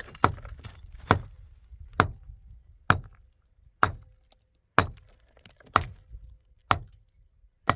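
A steady series of sharp single blows, about one a second, nine in all.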